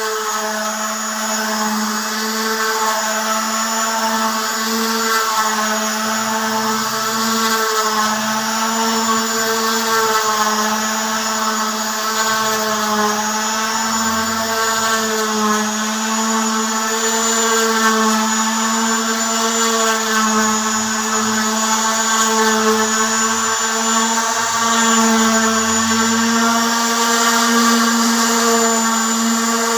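Handheld electric sander running steadily on a synthetic solid-surface tabletop. It makes a constant motor whine whose pitch wavers only slightly.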